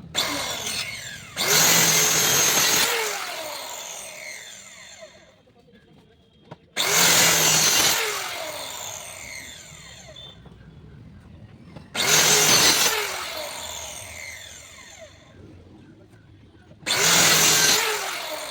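Handheld electric power tool cutting or shaping wood in four short bursts, each about a second and a half long. After each burst it winds down in falling pitch as the trigger is released.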